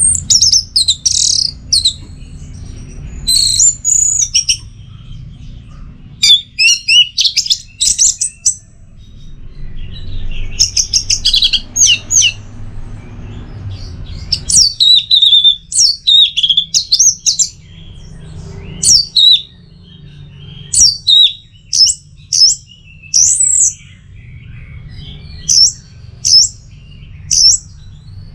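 Orange-headed thrush singing: a run of rapid, varied, high-pitched phrases of whistles and glides, coming in short bursts with brief pauses between them, over a steady low hum.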